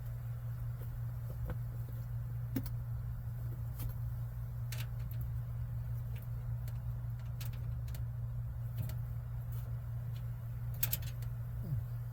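Scattered light clicks and taps of small parts and hand tools being handled, a few seconds apart, over a steady low hum.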